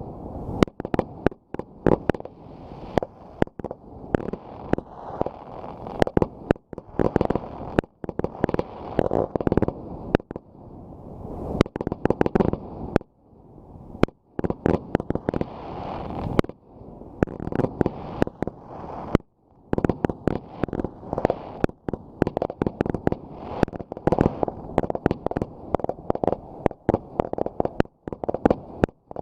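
Fireworks going off in rapid succession: many sharp bangs close together over a continuous low rumble, with a few brief lulls.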